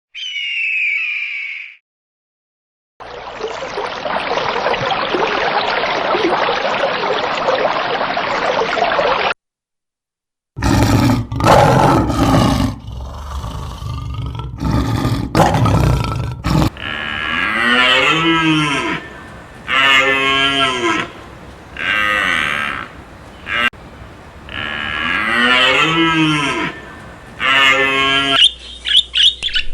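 Farm animals calling in several short clips cut one after another, with silent gaps between them. The second half is a run of repeated drawn-out calls that rise and fall, about one every two seconds.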